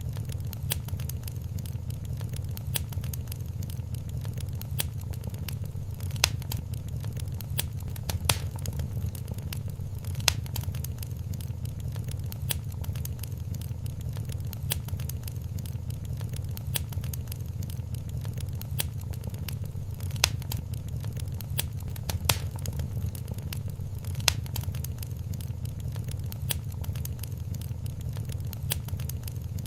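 Wood fire crackling in a fireplace: a steady low rumble under constant fine crackling, with a few louder pops.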